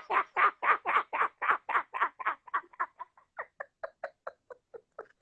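A man laughing in a long run of short, quick 'ha-ha-ha' pulses, about four a second, that trail off and grow fainter.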